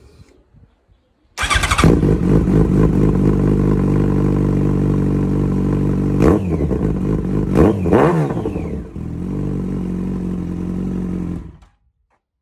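Yamaha FZ1's inline-four engine, breathing through an aftermarket HP Corse exhaust, starts up suddenly and settles into a steady idle. Three short throttle blips follow, the last two close together. The engine then idles again and is switched off, cutting out abruptly near the end.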